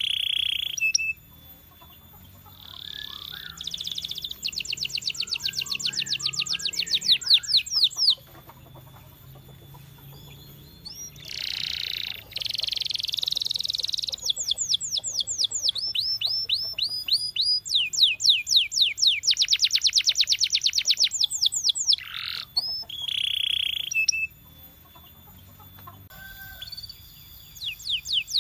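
Domestic canary singing: several runs of fast trilled notes, each note sliding down in pitch, broken by short pauses.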